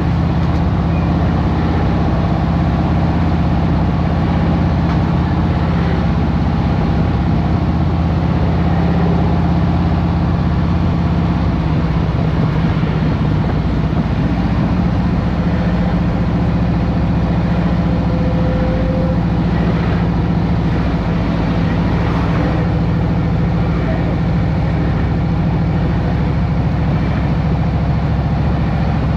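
2023 Harley-Davidson Road Glide Special's Milwaukee-Eight 114 V-twin running at a steady, even pitch, without revving.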